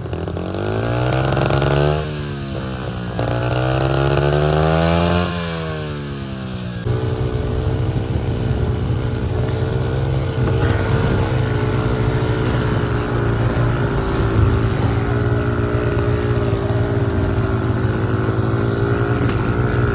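Small off-road vehicle engine revved up and let down twice, then running at a steady pitch.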